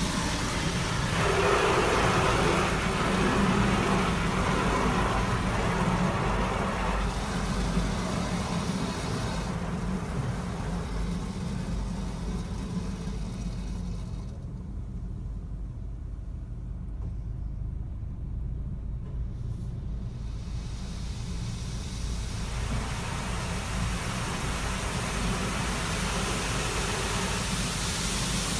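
Automatic car wash heard from inside the car: a steady low rumble under a hiss of spray on the car, which dies away about halfway through and comes back in the last few seconds.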